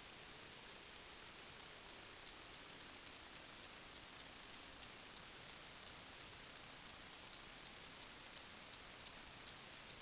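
Steady high-pitched electronic whine over hiss, broken by faint, irregular ticks a few times a second.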